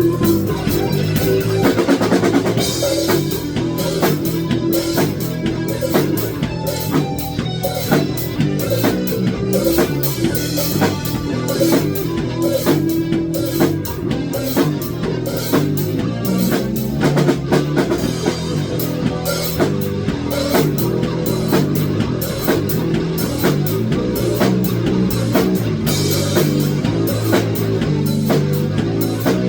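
Rock music played on a drum kit with guitar, the drums keeping a steady beat.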